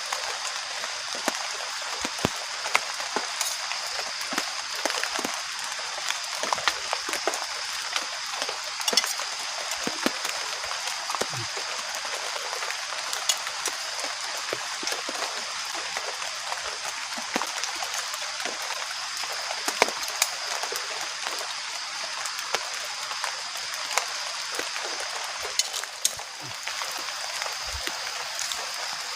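Heavy rain falling steadily, with frequent sharp drips and drop impacts close by.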